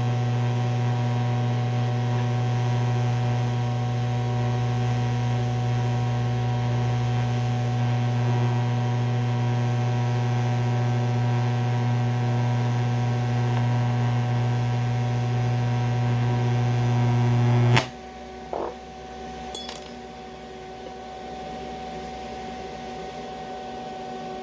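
TIG welding arc on aluminum run on DC electrode positive: a steady buzzing hum that stops abruptly about eighteen seconds in as the arc is broken. The welding machine's quieter idle hum and a couple of small clicks follow.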